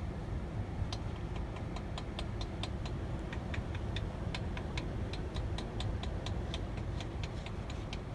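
Rapid, uneven metallic tapping, about four strikes a second, starting about a second in: the stranded truck's engine being struck to try to free a starter that won't turn. Under it runs a steady low rumble.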